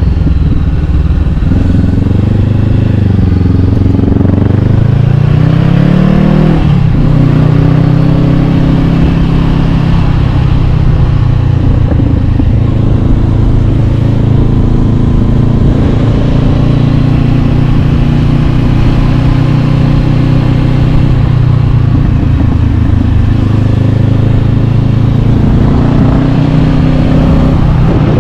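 Honda CB500X parallel-twin engine through an Arrow Pro-Race exhaust, under way: it revs up with rising pitch over the first several seconds, drops sharply on an upshift about seven seconds in, then runs at a steady cruise with small changes in throttle.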